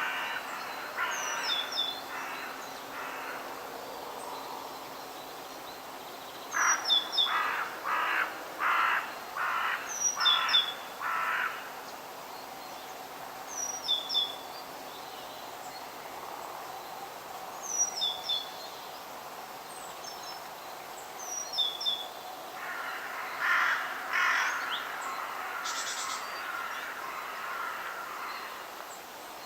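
Crows cawing in three runs of several harsh caws each, about half a second apart. A small bird gives a short high chirp every three to four seconds, over a steady outdoor background hiss.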